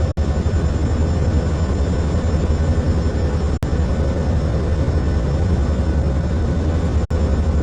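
Steady, loud drone of a hurricane hunter aircraft's engines heard from inside the plane, broken by three very brief dropouts.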